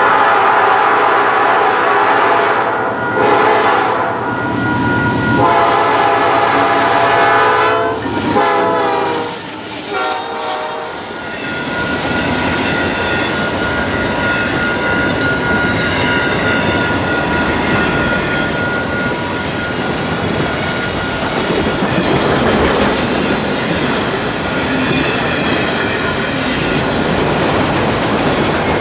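A Canadian Pacific locomotive's air horn sounds in several blasts, its pitch dropping as it passes. Then the train's cars roll by with a steady clatter of wheels on the rails, a thin steady tone running above it.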